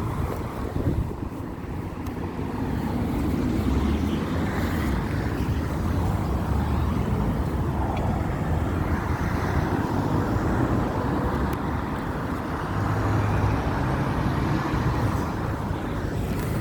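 Steady road traffic: cars and trucks running past, with a low engine rumble.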